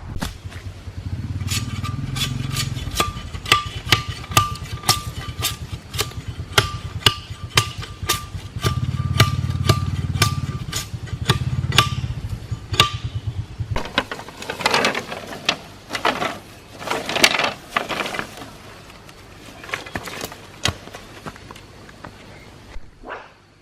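Hammer blows on metal and wood, about two a second, each with a short metallic ring, as a nail is driven in. After about fourteen seconds the hammering stops and a handful of longer, rough scraping strokes follow.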